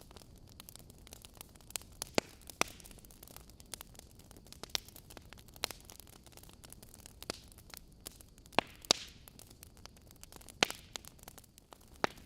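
Wood fire crackling: logs popping and snapping at irregular intervals over a faint low hiss, with a cluster of loud pops a little after the middle.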